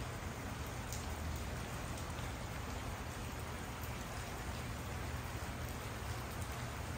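Steady rain falling at night, an even hiss with a few sharper ticks of single drops.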